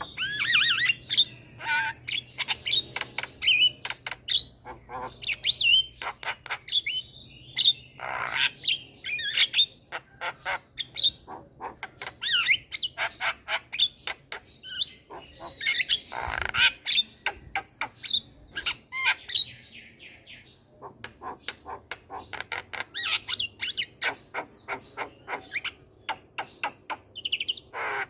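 Javan myna (jalak kebo) singing a busy, varied song of rapid clicks, harsh squawks and short whistles, in bouts with brief pauses.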